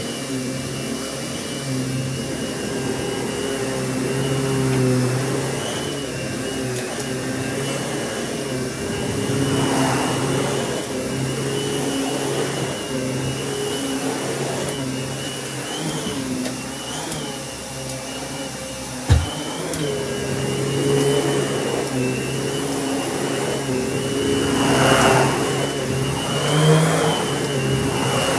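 Kenmore canister vacuum running steadily, its motor tone wavering a little in pitch as the suction load changes, with a few brief surges of rushing air. A single sharp knock comes about 19 seconds in.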